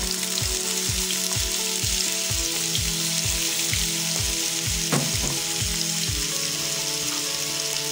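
Diced red bell pepper and green onion sizzling in hot oil in a frying pan, a steady hiss. Underneath runs background music with a steady beat of about three a second.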